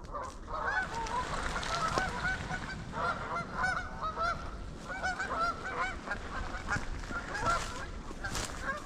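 A large flock of Canada geese honking, many short rising-and-falling calls overlapping one another without a break.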